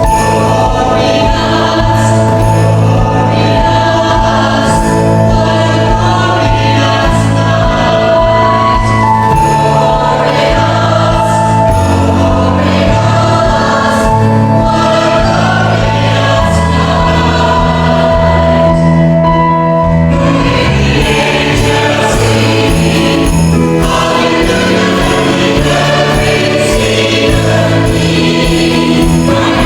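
Church choir singing a sacred Advent piece with instrumental accompaniment, over sustained low notes that change every few seconds.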